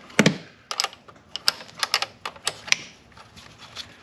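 Irregular light clicks and clinks of hand tools and small metal parts being handled, with one heavier knock just after the start.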